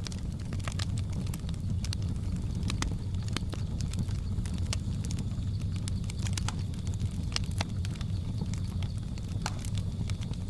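Wood fire crackling: irregular sharp pops and snaps over a steady low rumble, with a faint steady high tone from the jungle ambience behind it.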